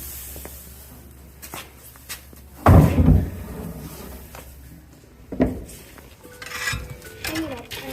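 Knocks and thumps. The loudest is a heavy thump with a short rustle about three seconds in, and another thump comes a little after five seconds.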